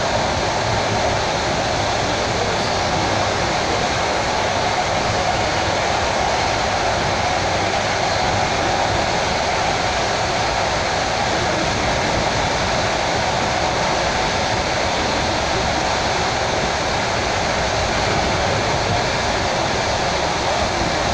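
Steady running noise of a moving suburban electric train (elektrichka) heard from inside the carriage: an even rush of wheels on rails and air, unchanging throughout.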